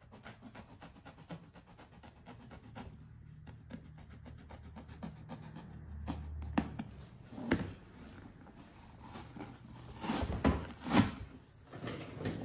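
Blade cutting and trimming a vinyl seat cover: faint rubbing and scraping with small clicks, then a few sharper knocks of handling near the end.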